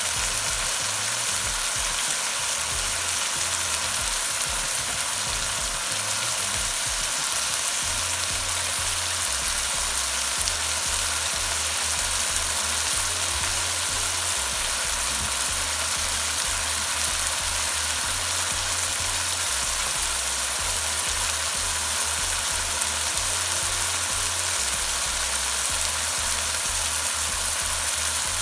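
Onion and spice masala frying in a pan with a steady sizzle.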